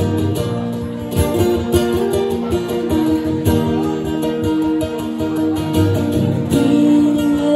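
Instrumental break in a live Irish ballad: acoustic guitar strummed steadily, with a held melody line sounding over it.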